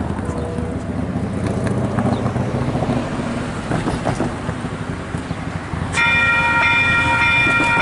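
A rumbling background noise, then about six seconds in the Western Cullen Hayes electronic level-crossing bells start ringing: a loud, steady, multi-tone ring that begins abruptly as the crossing activates for an approaching train.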